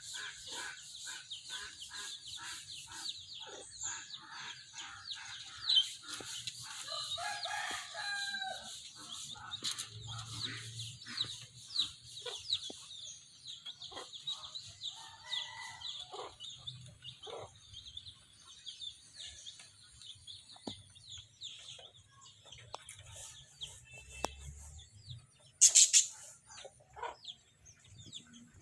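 Javan myna calling in a stream of quick, short, high chirps. A longer, lower crow-like call comes about seven to eight seconds in, and a brief harsh loud squawk comes near the end.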